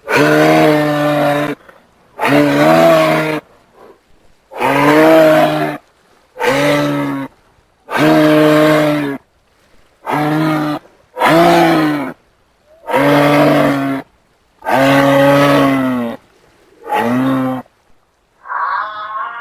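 A large hoofed animal giving a long series of low, moo-like calls, about ten in all, each lasting about a second and separated by short pauses. Near the end a different, higher, wavering sound begins.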